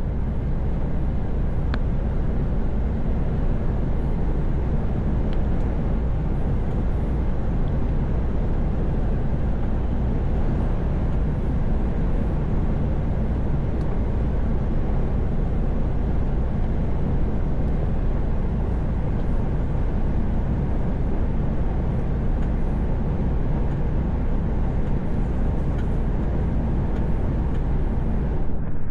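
Truck driving at steady highway speed: a constant low engine drone with road and wind noise, even throughout.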